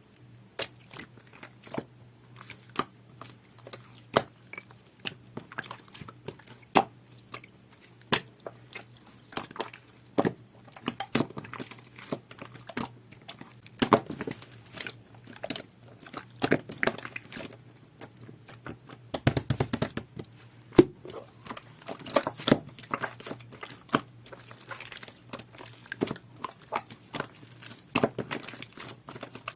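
Jelly-textured slime being squeezed, poked and stretched by hand, giving irregular wet clicks and pops, with a denser run of squelching about two-thirds of the way through.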